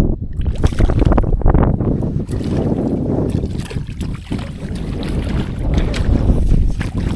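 Wind buffeting the microphone in a low, steady rumble, with scattered knocks and rattles over it.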